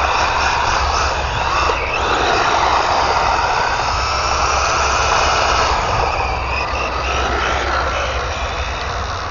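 ARRMA Infraction 3S RC car's brushless electric motor whining as it is driven, the pitch rising and falling with the throttle over the noise of its tires on the surface.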